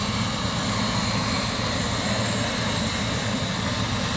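Helicopter running steadily on the ground, a constant engine rumble with a thin high steady tone above it.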